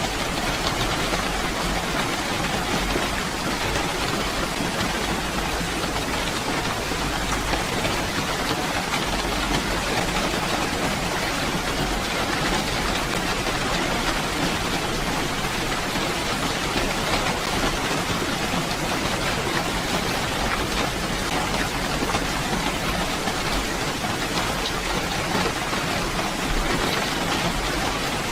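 Steady rainfall, a dense even hiss of drops with fine pattering throughout.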